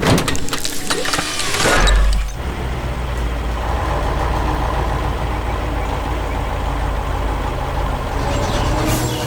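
A heavy machine's diesel engine running steadily with a deep rumble, after a loud clattering burst in the first two seconds.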